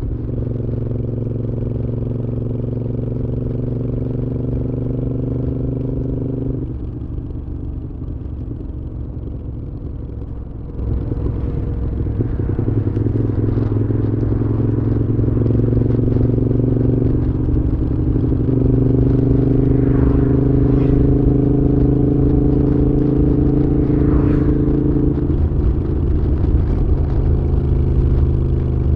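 Moto Guzzi V7's air-cooled transverse V-twin running through a Mistral exhaust under steady throttle. About seven seconds in it drops to a quieter off-throttle note, and about eleven seconds in it pulls again, rising in pitch with a shift in note.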